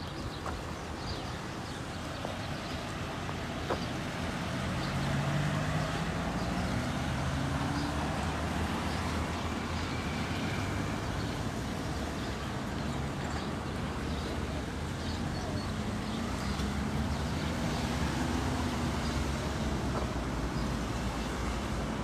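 Road traffic: motor vehicles running and passing, a steady noise with engine hum that slowly rises and falls in pitch.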